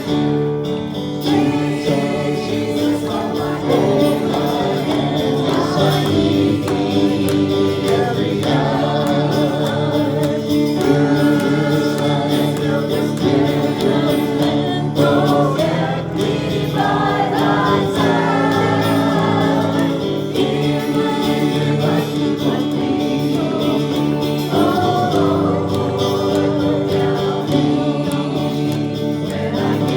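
Gospel worship music: a group of voices singing with instrumental accompaniment.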